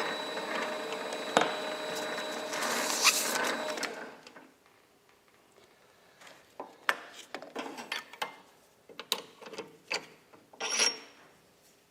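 Hand work on a small machine's parts: about four seconds of steady scraping and rubbing, then scattered light clicks and knocks as parts are handled.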